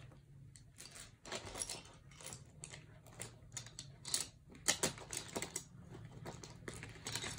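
Irregular light clicks and taps of pens and paper being handled, a few a second.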